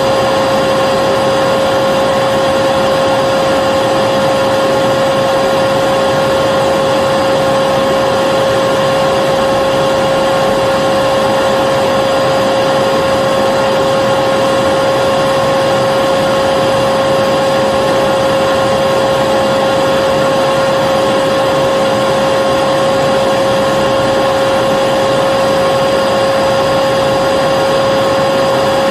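Vacuum cleaner motor running steadily, a constant rush of air with a steady high whine.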